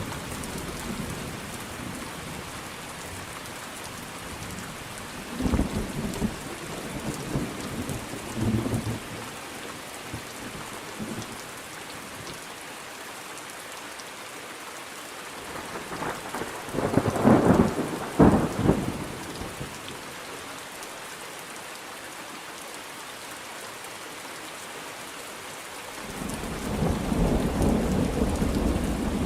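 Thunderstorm: steady rain hiss throughout, with rolls of thunder about five and eight seconds in, a loud sharp double crack of thunder around seventeen seconds, and a long low rumble building near the end.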